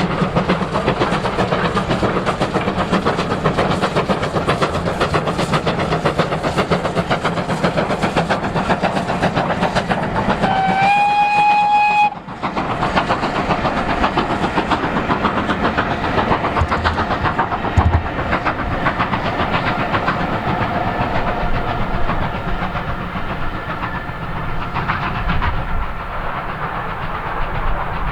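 Steam locomotive running with its train, rapid exhaust beats and rail noise throughout. About ten seconds in it gives one steady whistle blast of nearly two seconds, which cuts off sharply.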